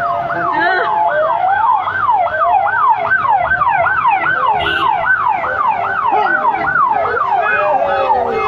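Fire engine sirens sounding together, one in a fast yelp that rises and falls about twice a second over other steady siren tones.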